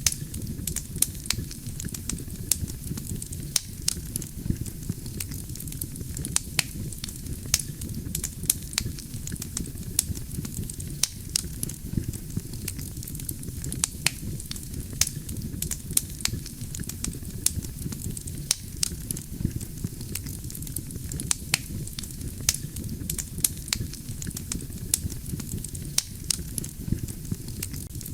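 Wood campfire burning: a steady low rumble of flames with frequent sharp, irregular crackles and pops from the burning logs.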